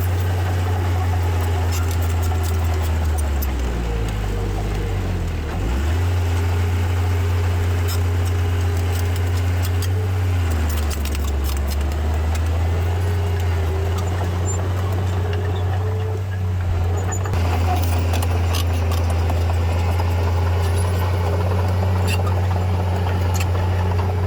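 Heavy diesel engine of a small crawler bulldozer running steadily, dipping in pitch about four seconds in and again about ten seconds in, with scattered clicks over it.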